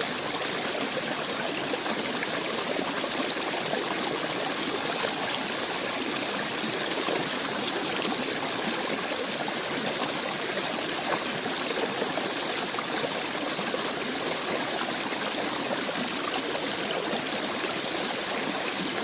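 Running water flowing steadily, an even rushing sound with no change.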